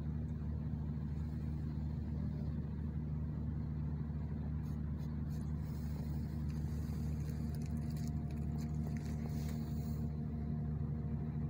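Steady low mechanical hum of a running motor or machine, even throughout, with no cat calls heard.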